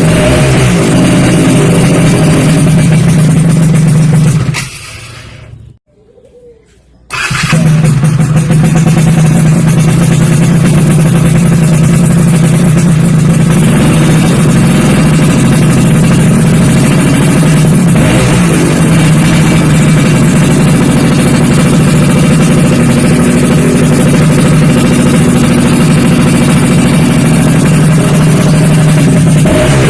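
Yamaha F1ZR's two-stroke single-cylinder engine running through a WRS aftermarket chrome exhaust, a loud steady exhaust note. It fades away about four and a half seconds in and comes back suddenly about two seconds later.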